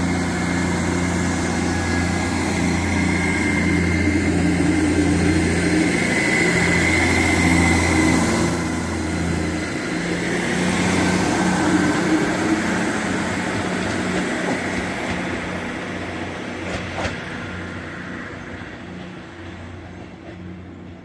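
ScotRail Class 158 diesel multiple unit pulling out of the platform, its underfloor diesel engines droning steadily under power. The sound fades away over the last few seconds as the train moves off.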